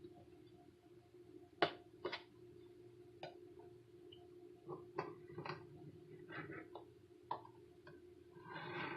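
Scattered light clinks and taps of kitchenware, a bowl against a plate, as a tortilla is cut into circles around the bowl, over a faint steady hum. The sharpest tap comes a little over a second and a half in, and a soft rustle builds near the end.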